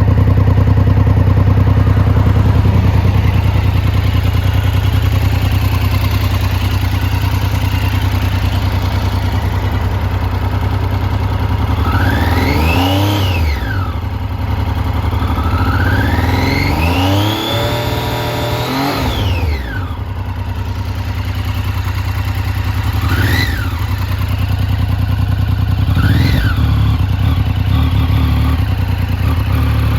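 Triumph Street Triple's inline three-cylinder engine idling, revved once briefly about twelve seconds in, then held up for a few seconds, then blipped twice quickly near the end. The bike has a running fault and is not yet repaired.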